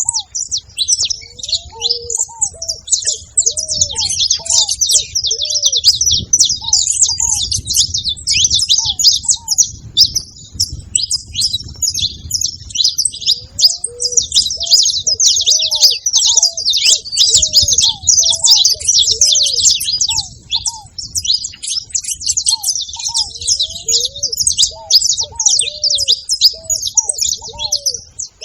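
A group of saffron finches chirping and singing together in a dense, continuous high-pitched chatter. Lower, arched notes come in short runs every few seconds underneath.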